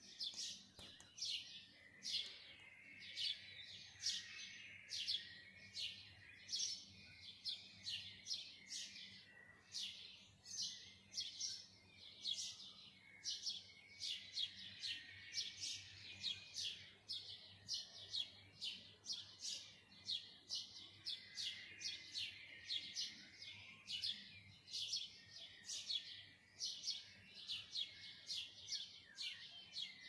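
Birds chirping: a dense run of short, sharp, high chirps, several overlapping each second, going on without a break.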